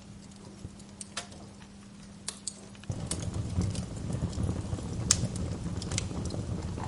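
Wood fire crackling, with irregular sharp pops and snaps. About three seconds in, a louder low rumble of the fire starts and carries on under the pops.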